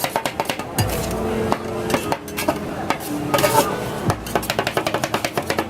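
Metal spatulas clattering and scraping on the frozen steel plate of a rolled ice cream stand as the ice cream is chopped and worked, ending in a quick run of chopping taps, several a second.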